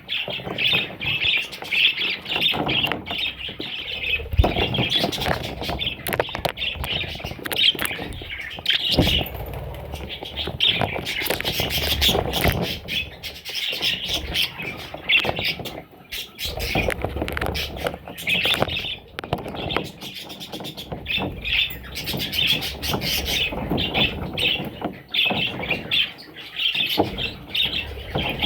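A flock of budgerigars chirping and chattering without a break, with bursts of wing flapping.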